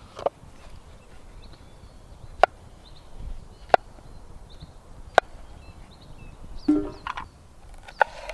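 Firewood being chopped or split: five sharp wooden knocks spaced a second or two apart, each with a short ring.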